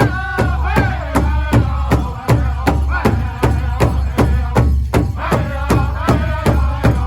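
Powwow drum group performing a men's traditional dance song: several singers striking one large drum in a steady beat, nearly four strokes a second, while singing in unison in high, gliding voices.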